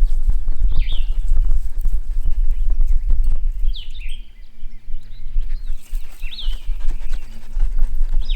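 A bird repeating a short call that sweeps sharply down in pitch, about every two seconds, five times. Under it runs a loud low rumble with scattered clicks.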